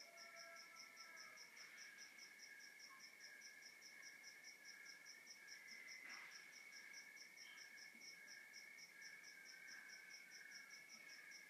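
Faint night chorus of crickets: one chirping in an even pulse about four to five times a second, over steady trilling from other crickets or insects. There is a faint tap about halfway through.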